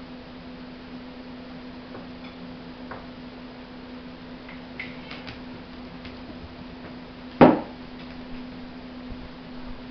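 A few light clicks and one sharp knock about seven seconds in, over a steady low hum.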